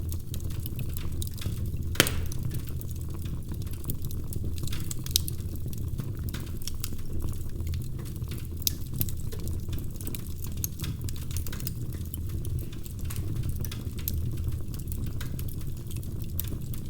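Wood fire crackling in a fireplace: scattered sharp pops and ticks over a steady low rumble, with one loud pop about two seconds in.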